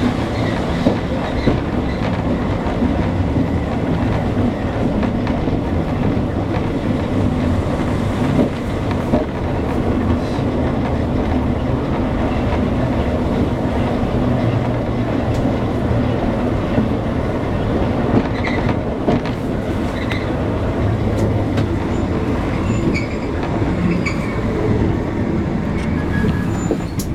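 Ride noise inside a Botchan Ressha coach on a street tramway: a steady low running hum with the wheels clacking and rattling over the rails. A few short, high wheel squeaks come in the second half.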